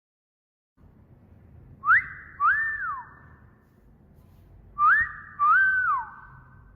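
Two wolf whistles about three seconds apart, each a quick rising note followed by a longer note that falls away at the end, with an echoing trail after each.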